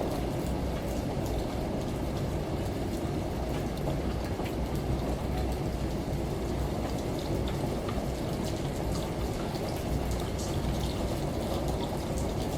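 Steady falling water with a low, even rumble underneath and scattered light drip ticks on top, unchanging throughout.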